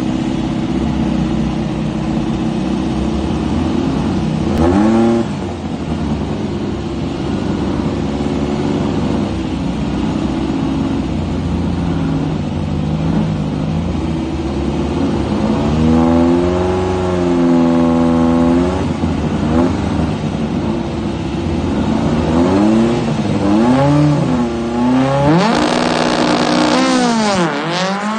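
A VW Beetle's 2332 cc air-cooled flat-four running at idle and being revved several times, once held up for a couple of seconds. Near the end it launches at full throttle, much louder, the pitch swooping up and down quickly as the car pulls away.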